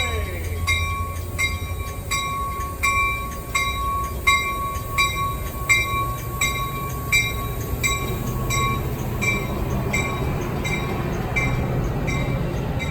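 Railroad warning bell ringing steadily at about two strokes a second over the low rumble of a train.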